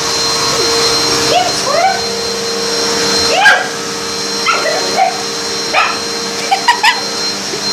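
Vacuum cleaner running steadily while a dog barks and yips at it over and over, with a quick run of three sharp barks near the end.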